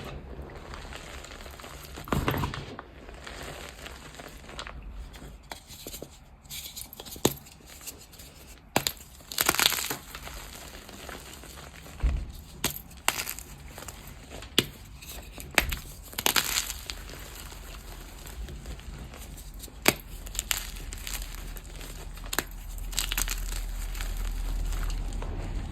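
Blocks of gym chalk being crushed and crumbled, with irregular crunches and sharp crackles, some louder bursts among quieter powdery crumbling.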